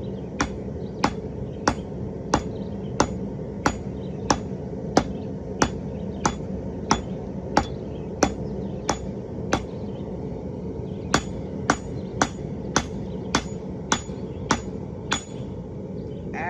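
Hand hammer striking hot steel on an anvil in a steady rhythm, about one and a half blows a second, knocking the forge scale off and drawing the metal out. The blows pause for a second or two near the middle, then start again and stop shortly before the end.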